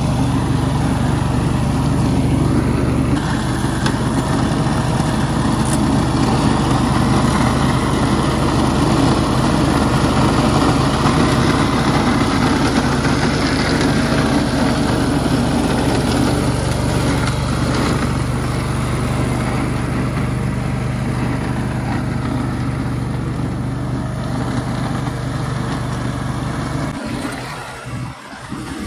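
A motor vehicle engine running steadily with a constant low hum. The low hum drops away near the end.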